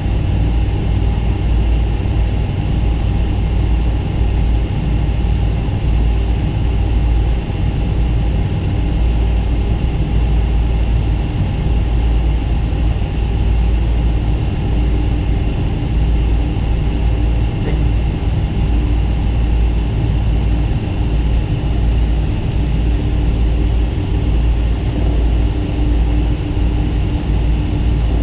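Boeing 777-200 cabin noise: the jet engines running steadily with a heavy low rumble and a few constant whining tones, heard from inside the cabin.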